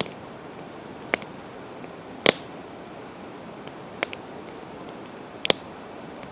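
Campfire of split evergreen wood crackling: five sharp pops at uneven intervals, the loudest a little over two seconds in, over a steady hiss.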